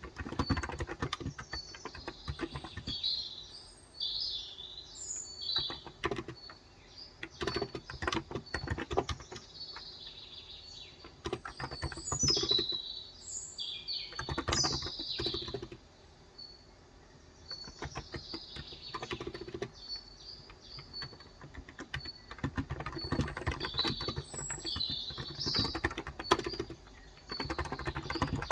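Typing on a Cox Endeavor electro-capacitive (non-contact) keyboard with 35g switches: keystrokes come in quick runs with short pauses. Small birds chirp and twitter throughout, most strongly around halfway.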